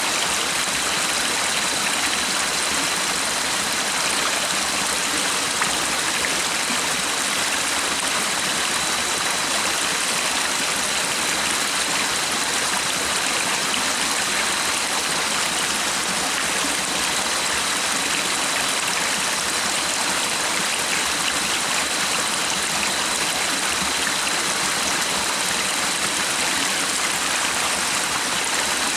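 Stream water flowing steadily: a continuous, even rushing hiss with no breaks, under a faint steady high-pitched tone.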